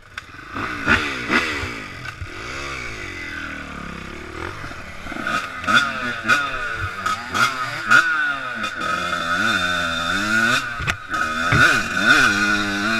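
Dirt bike engine revving, its pitch climbing and dropping again and again through the gears, with scattered knocks and clatter.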